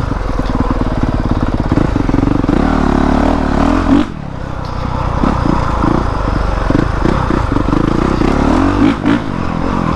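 Honda CRF450R's single-cylinder four-stroke engine running under way as the dirt bike is ridden, the throttle shut off sharply about four seconds in and then opened back up.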